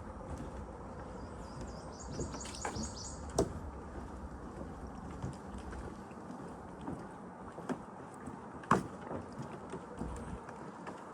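Footsteps along a nature trail: irregular soft thuds and clicks, the sharpest about three seconds in and again near nine seconds. A brief high, rapidly pulsed trill is heard from about one and a half to three seconds in.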